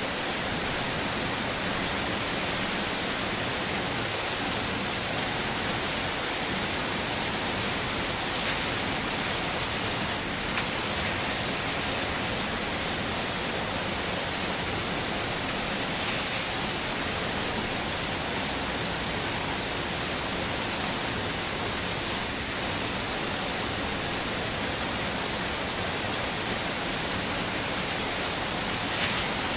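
Heavy rain falling steadily, a dense, even hiss. The hiss dips briefly twice, about ten and twenty-two seconds in.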